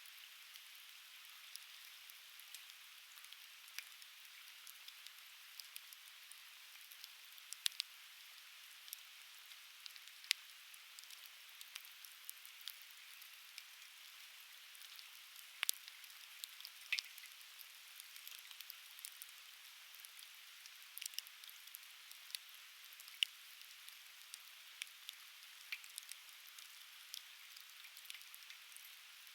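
Conifer firewood burning, crackling with sharp pops and snaps at irregular intervals over a steady hiss, with a river's murmur underneath.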